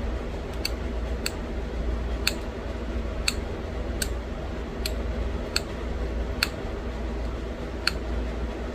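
Sharp, brief clicks of small flakes popping off a green novaculite bird point under pressure flaking, about one a second.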